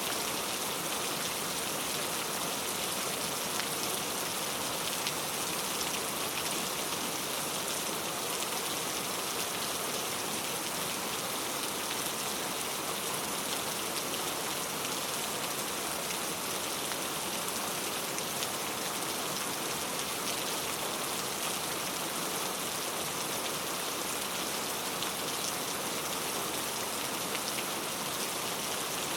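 Steady heavy rain falling, a dense even hiss with fine drop patter and no breaks.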